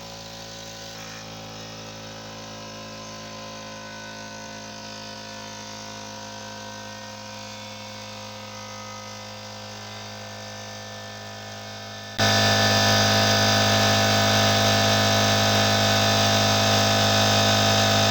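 Air compressor running steadily, a motor hum with several steady tones, building pressure on the freshly repaired gauge. About twelve seconds in it abruptly becomes much louder.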